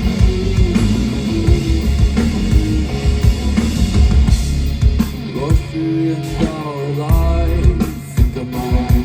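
A rock band playing live: drum kit, bass and electric guitar at full volume, with a held, gliding melodic line, most likely a voice, coming in about five seconds in.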